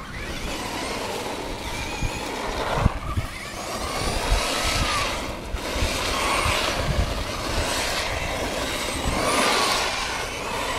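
Traxxas Stampede RC truck's electric motor whining up and down as the truck repeatedly speeds up and slows, over the rough noise of its tyres, with a few short knocks.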